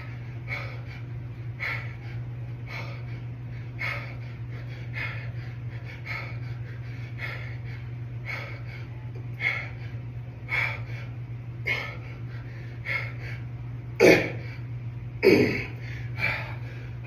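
A man breathing hard with effort during a set of dumbbell hammer curls: short, noisy breaths in a steady rhythm of about one a second. Near the end, a few louder, strained exhales stand out. A steady low hum runs underneath.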